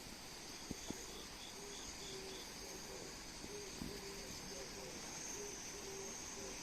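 Crickets and other insects trilling steadily, with a short run of quick chirps about two seconds in and a low note pulsing about twice a second. A couple of faint clicks about a second in.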